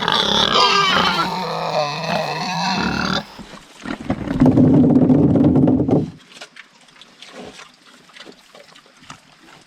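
Pigs squealing and grunting excitedly at feeding time: a loud burst of squeals for about three seconds, then a lower, drawn-out call for a couple of seconds, then only quiet shuffling.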